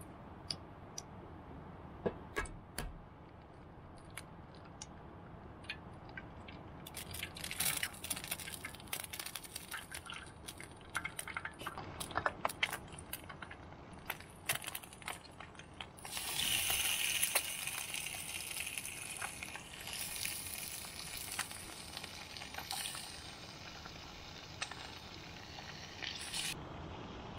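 Egg and meat frying in hot oil in a pan: scattered pops and spits at first, then a dense, louder sizzle from about halfway through as pieces of meat are laid into the fat.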